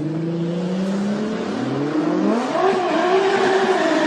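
Car engine accelerating hard: its pitch climbs, drops at a gear change about one and a half seconds in, then climbs again and holds high as it gets louder.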